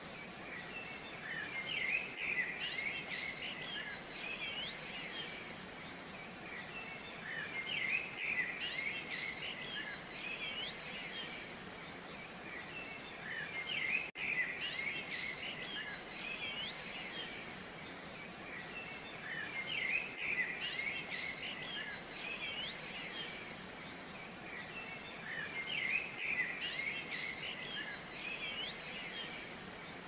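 Birdsong: many small birds chirping and whistling together, swelling in bursts about every six seconds over a steady background hiss.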